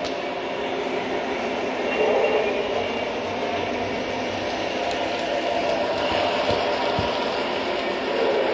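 Lionel model train running around its track: a steady rumble of the electric motor and wheels on the rails that swells and eases as it goes round, with a few faint clicks from the rail joints.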